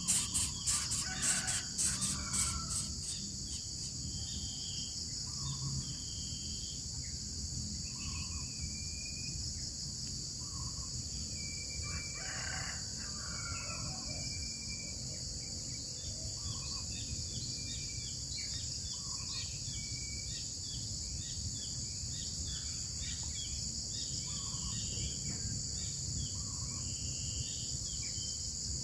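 Steady high-pitched drone of insects, pulsing fast for the first three seconds, with scattered short bird chirps and a rooster crowing about twelve seconds in.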